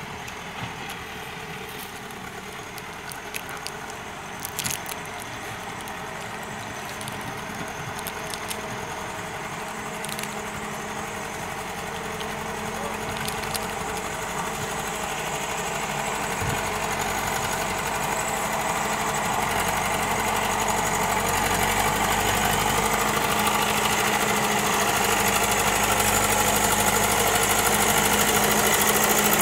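JCB backhoe loader's diesel engine running steadily and growing gradually louder, with a few faint clicks in the first seconds.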